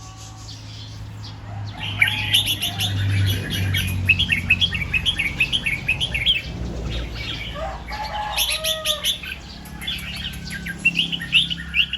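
Red-whiskered bulbul singing: runs of rapid, chirpy notes that begin about two seconds in, break off briefly twice, and pick up again. A low steady hum lies underneath.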